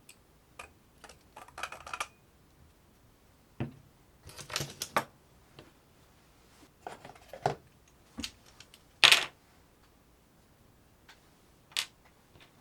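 Small hard objects being handled: scattered clicks, taps and short scrapes at an irregular pace. The loudest is a short scrape about nine seconds in.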